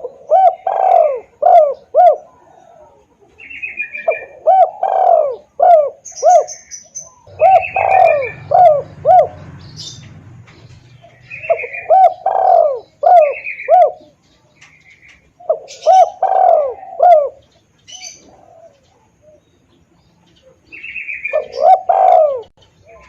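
Spotted dove (tekukur) cooing as a lure call: a phrase of several low coo notes is repeated about six times, a few seconds apart. Fainter, higher short calls come between the phrases.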